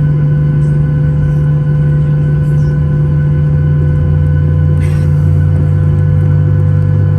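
Steady low drone inside a Boeing 737-800 cabin, with a constant thin whine over it: the jet engines and cabin air system running on the ground. A brief faint rustle comes about five seconds in.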